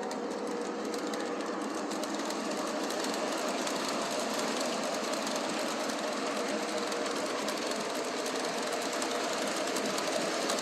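Model electric train running on its track: a steady whir of the locomotive's motor with the clatter of wheels on rail, growing slightly louder as it comes closer.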